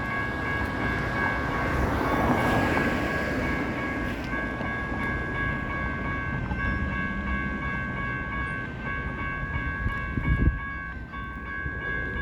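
A train running past with a steady rumble and a continuous high-pitched tone that dips briefly at regular intervals, and a single thump near the end.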